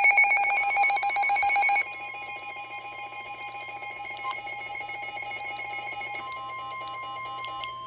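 Emergency Alert System data tones: a loud, buzzy SAME-header burst that cuts off about two seconds in, followed by quieter, overlapping electronic data tones. A steady single tone comes in near the end as the warning's attention signal.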